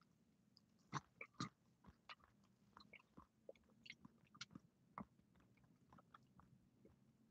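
Near silence with faint, scattered clicks and small crunches of a person chewing, the strongest about a second in and again about five seconds in.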